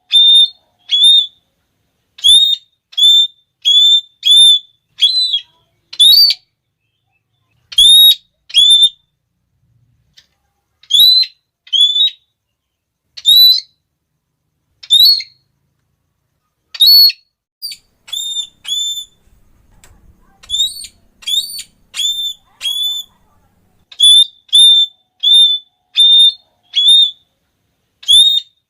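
Red-cheeked parrot giving its shrill, repeated 'klee' call: short whistled notes in runs of several, about two to three a second, with a couple of short pauses.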